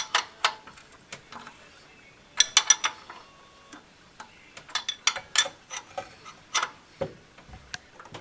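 Hand tools clicking and clinking on metal while the engine mount bolts are tightened. The sound comes in a few short bursts of quick, sharp metallic clicks, with quiet gaps between them.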